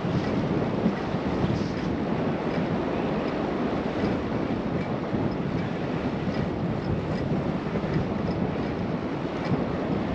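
Steady rushing wind on a camera microphone while cycling.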